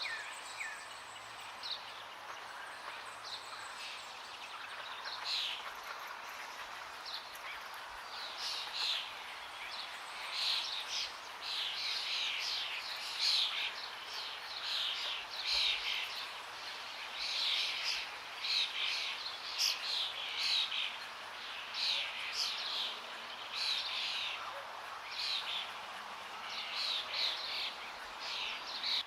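Small birds chirping repeatedly over a steady rush of flowing water. The chirps are sparse at first and become busy, several a second, after the first several seconds.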